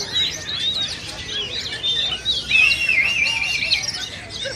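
Several oriental magpie-robins (kacer) singing at once, a dense tangle of quick overlapping whistles and chirps. A longer wavering whistle stands out about halfway through.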